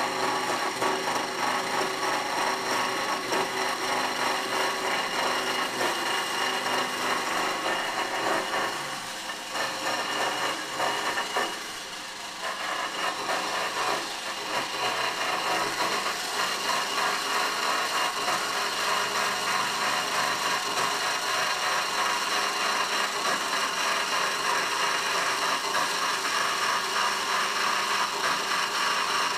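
Power saw running steadily as it cuts through steel exhaust pipe, a continuous grinding, rasping cut that eases briefly about ten seconds in before carrying on.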